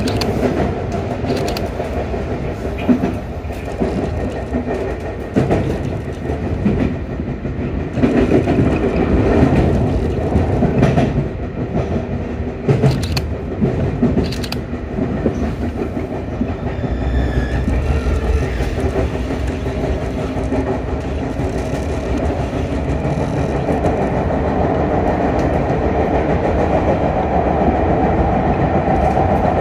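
Sotetsu electric commuter train running between stations, heard from the front of the leading car: a steady rumble with repeated sharp clicks of the wheels over rail joints, growing a little louder near the end.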